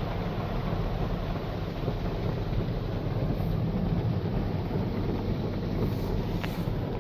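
WashTec SoftLine 2 tunnel car wash running during the foam stage: a steady rumble and hiss of the tunnel machinery and foam spray on the car.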